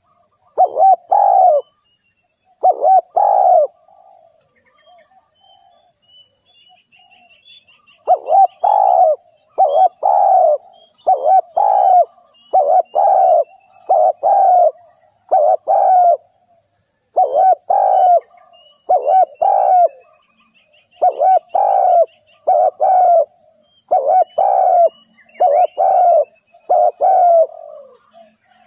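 Spotted dove cooing: loud, low, repeated coos, a few close together at first, then a gap of about four seconds, then a steady run of coos at about one to two a second until the end.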